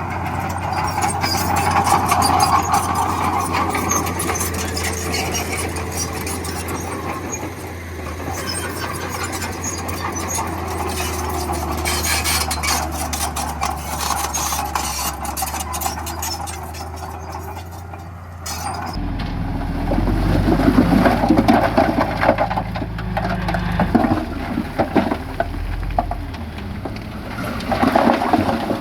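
Bulldozer diesel engine running steadily under work. About two-thirds of the way through the sound changes abruptly and becomes louder and rougher.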